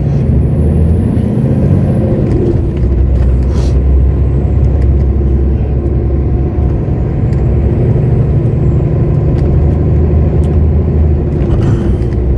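Lorry's diesel engine running steadily as it drives, heard from inside the cab as a continuous low rumble. A couple of brief higher-pitched noises come about three seconds in and near the end.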